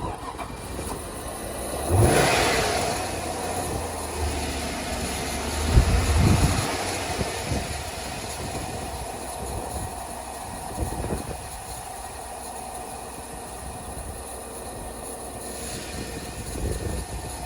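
2001 GMC Yukon's 5.3-litre Vortec V8 cold-starting: the engine fires about two seconds in, surges louder again around six seconds in, then settles into a steady idle.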